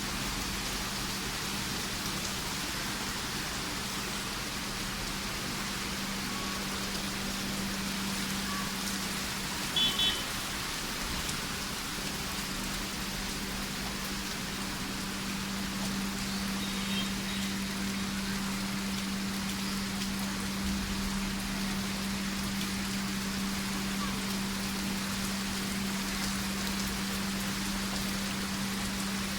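Rain falling steadily, an even hiss of drops, over a steady low hum. About ten seconds in, two short high-pitched chirps stand out above it.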